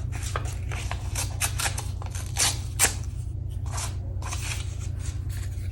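Scissors snipping through gel-printed paper in a series of short, crisp cuts, over a steady low hum.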